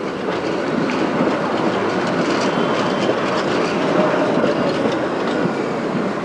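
Tram rolling past over junction trackwork, its wheels clattering steadily across the rail joints and crossings, with a faint high wheel squeal partway through.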